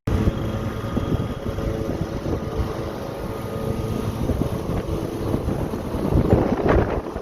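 Strong wind buffeting the microphone over the low rumble of heavy storm surf, swelling louder about six seconds in.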